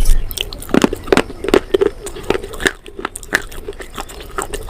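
A person biting and chewing crunchy food close to the microphone: a quick, irregular run of sharp crunches and crackles.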